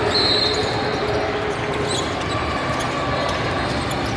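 Basketball game in a gym: a ball being dribbled on the court, short high sneaker squeaks, and steady crowd noise.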